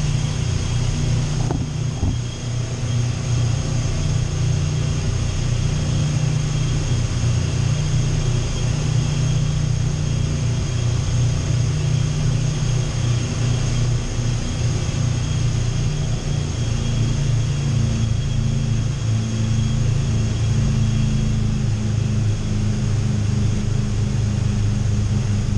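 Twin boat engines running at low speed: a steady low drone with no change in level.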